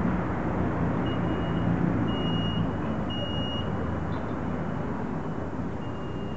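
Electric double-deck commuter train running along the platform with a low rumble that eases off about halfway through. From about a second in, a high electronic warning beep of about half a second repeats roughly once a second.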